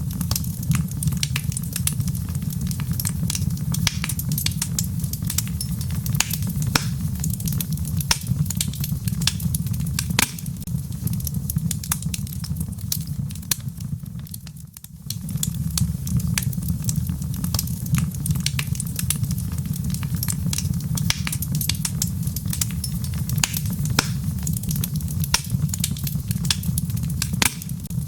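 Wood fire crackling, with frequent sharp pops and snaps at an irregular rate, mixed with steady rain on a low, even rumble. About halfway through, the whole sound briefly dips away and then comes back.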